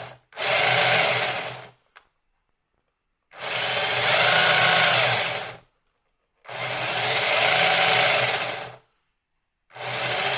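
Brushed 370 electric motor and four-wheel-drive drivetrain of a 1/16 scale RC drift truck whining in four bursts of throttle, its wheels spinning freely in the air while the truck is propped up off the table.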